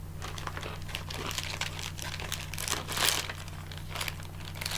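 Candy wrapper being handled, crinkling in irregular crackles that are loudest about three seconds in, over a steady low hum.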